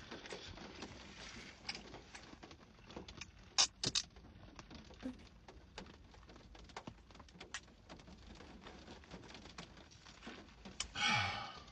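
Close-up eating sounds: chewing and mouth clicks from someone eating chicken wings, scattered and irregular, with a short vocal hum near the end.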